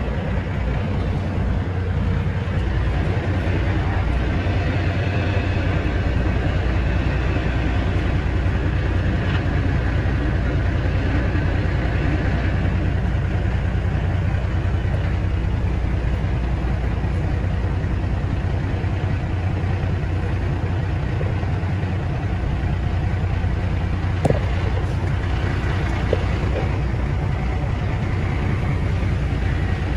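Heavy truck's diesel engine idling steadily, with two brief knocks near the end.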